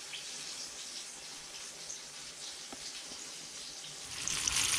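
Faint, steady sizzle of battered walleye wings frying in oil in a skillet.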